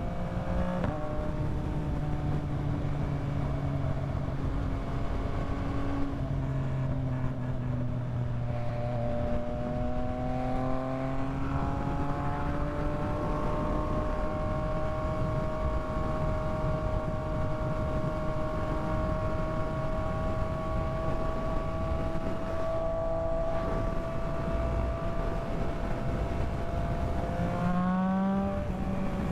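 Yamaha MT-09's inline three-cylinder engine running at a steady cruise, its pitch drifting slowly, with revs rising near the end as the bike accelerates. Steady wind and road noise lies underneath.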